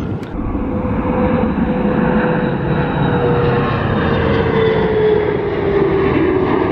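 An airplane's engines passing by, a loud steady roar with a tone that slowly falls in pitch as it goes.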